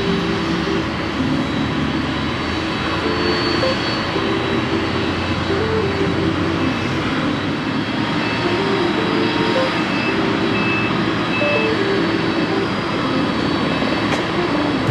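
Jet airliner engines making a steady, loud rush, with a background music melody playing over it.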